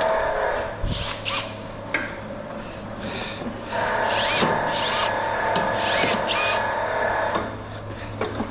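Power drill running in two spells, backing screws out of an air conditioner's sheet-metal casing, with a few metal clicks and knocks. It eases off about two seconds in and starts again near four seconds.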